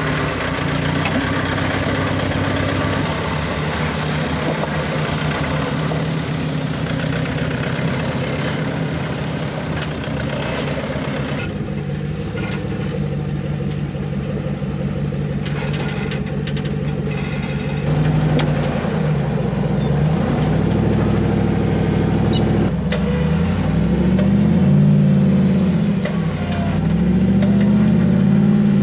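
Off-road vehicle engine running steadily, then revving up and down several times over the last ten seconds while a wedged rig is slowly worked free.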